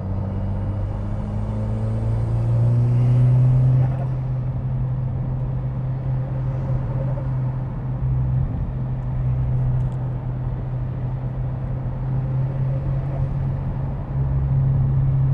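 SEAT Leon Cupra's turbocharged four-cylinder engine heard from inside the cabin, running at steady moderate revs on a gentle cool-down lap to rest the front brakes. The revs climb a little over the first few seconds, drop about four seconds in, and pick up again near the end.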